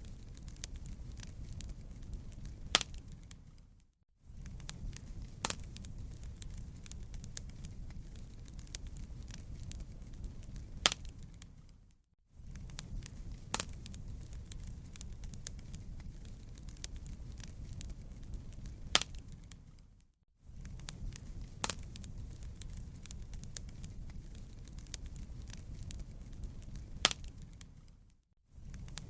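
Wood fire crackling, with a low rumble under many small crackles and a sharper pop every few seconds. It is a short loop: roughly every eight seconds the sound fades out for a moment and then starts again with the same pops.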